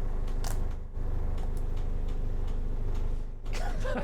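Steady low mechanical hum with a few fixed tones above it and faint ticking, from a machine running on board the boat.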